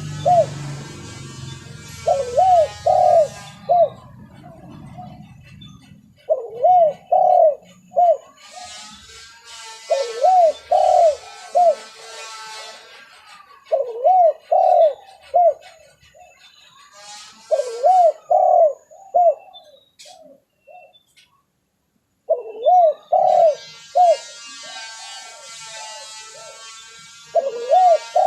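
Spotted dove (tekukur) cooing in repeated phrases of three to four notes every few seconds, as in a lure recording used to call in doves. A higher-pitched bird chirps behind it at times, and there is a short pause about two-thirds of the way through.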